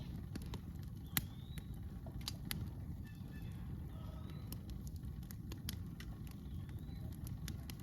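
Campfire crackling: irregular sharp pops and snaps over a low steady rumble, with faint high rising chirps every couple of seconds.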